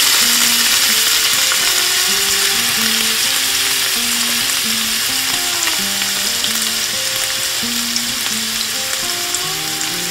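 Thawed spinach sizzling as it fries in hot olive oil and melted butter in a frying pan: a dense, steady hiss that eases slightly over the seconds. Light background music plays underneath.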